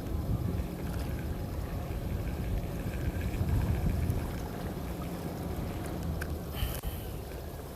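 Steady low rumble with a water-like wash, the kind of background heard at a seaside fishing spot, with a couple of sharp clicks about six and a half seconds in.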